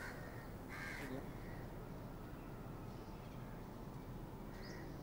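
A single bird call about a second in, with a fainter short call near the end, over a steady low background hum.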